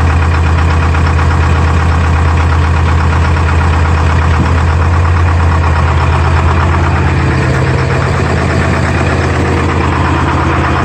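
Detroit Diesel 4-53 four-cylinder two-stroke diesel in a Clark log skidder running steadily just after a cold start, having sat unused for a long time. It gets a little quieter about three quarters of the way through.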